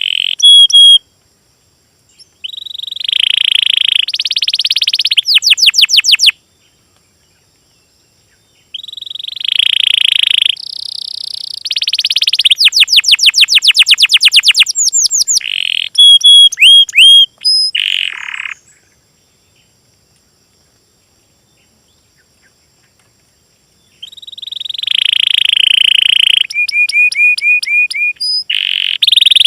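Small songbirds singing in phrases of fast, high trills and rapid repeated chirps, stopping for a few seconds of silence twice.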